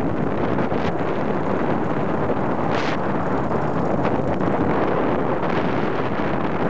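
Steady wind noise buffeting the microphone, an even rushing hiss with no breaks.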